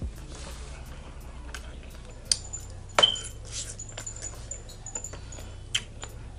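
Close-up eating sounds of a seafood boil: scattered clicks and clinks of lobster shell and utensils being handled, the loudest a sharp ringing clink about three seconds in.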